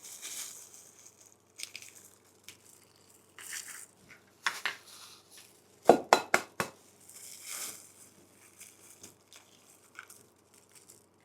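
Kitchen handling sounds: soft rustles and light clinks, with a quick cluster of sharp taps about six seconds in, an egg being tapped against the rim of a bowl to crack it into ground beef for burger patties.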